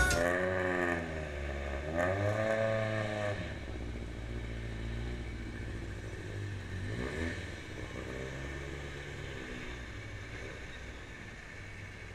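Car engine being revved in short blips, its pitch rising and falling back four times, fading as it gets farther away.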